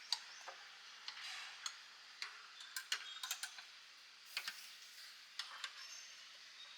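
Irregular sharp clicks and taps over a faint steady hiss, several clustered about three seconds in and again around four and a half seconds.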